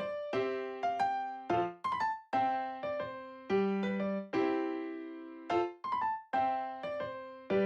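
Background music: a light electric-piano tune of short plucked chords, each note fading quickly.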